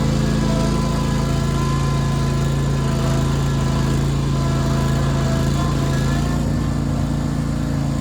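Riding lawn mower's engine running steadily, with a slight change in tone about six seconds in.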